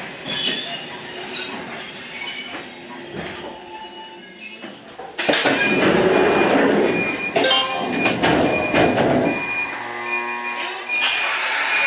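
Toyama Chiho Railway 14760-series electric train running on the rails, with wheel squeal. About five seconds in a loud rushing noise sets in, with a high squealing tone that pulses on and off in short stretches.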